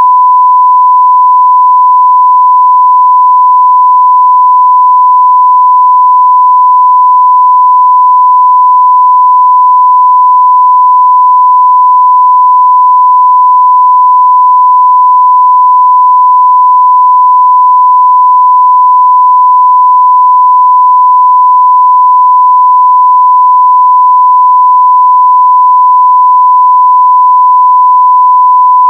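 A steady 1 kHz sine-wave test tone at full level, one pure unbroken pitch.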